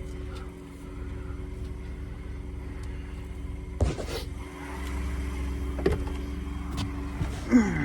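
Car running with a steady low hum, broken by three brief knocks or clicks about four, six and seven and a half seconds in.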